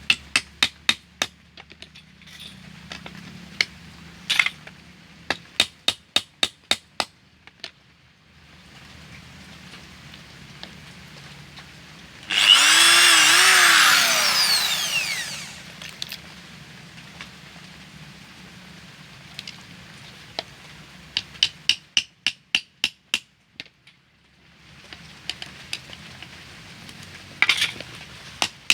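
Runs of quick, sharp hammer taps driving small nails into wood. Near the middle, a small electric power tool runs briefly and loudly, spinning up and then winding down.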